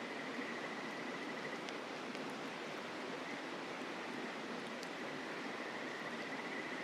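Mountain river rushing steadily, with an insect trilling in a fast pulsing buzz that fades out in the middle and returns near the end, and a few faint campfire crackles.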